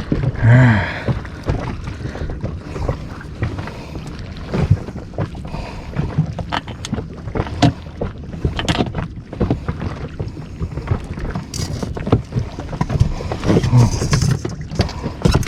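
Irregular knocks and clatter of gear being handled aboard a small inflatable fishing boat, over low wind and water noise, with a brief voice about half a second in and again near the end.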